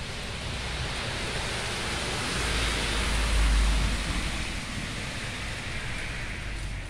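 Heavy rain falling steadily, a continuous hiss. About three seconds in, a louder rushing swell with a deep rumble rises and fades.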